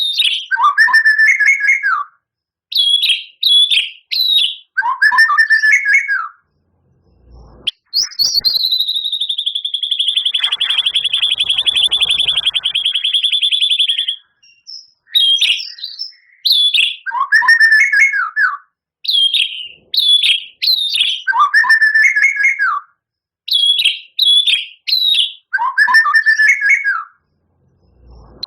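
A white-rumped shama singing. It repeats phrases of three quick high whistles followed by a lower slurred note. In the middle comes one long, steady trilled note that lasts about six seconds.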